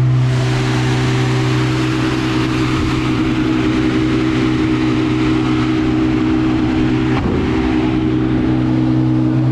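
Car engine idling steadily at a constant pitch, with a loud even hiss over it.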